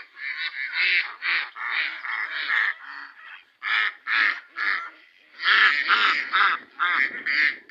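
Several farmyard waterfowl calling loudly and repeatedly, their calls overlapping in quick runs, with brief lulls about three and a half and five seconds in.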